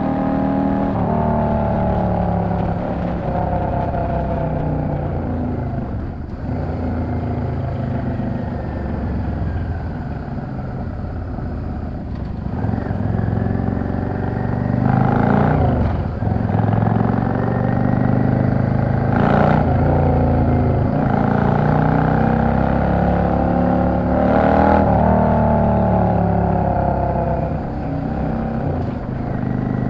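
Yamaha XVS 650 V-Star's air-cooled V-twin running under way, its pitch rising under throttle and dropping back several times as the rider accelerates and eases off, with a few brief louder surges.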